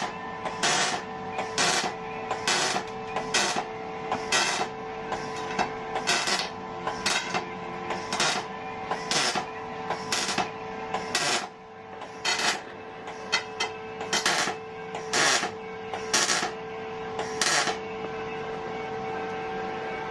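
A repeated sharp rasping stroke, about one a second, over a steady hum.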